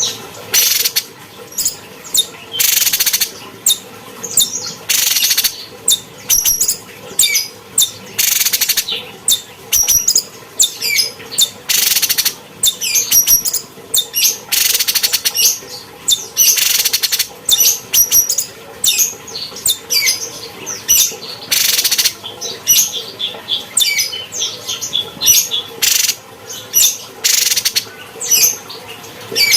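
Cucak cungkok singing non-stop: rapid high chirps and short whistled phrases, broken every second or two by brief harsh rasping notes.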